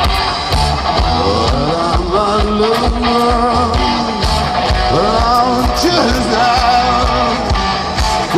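Rock band playing an instrumental break: steady drums and bass under a lead melody that wavers in pitch.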